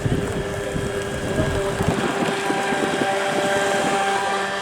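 Steady whine of a boat's motor running, with wind rumbling on the microphone for the first two seconds.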